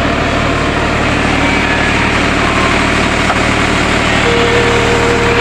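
Farmtrac 6050 tractor's three-cylinder diesel engine idling steadily.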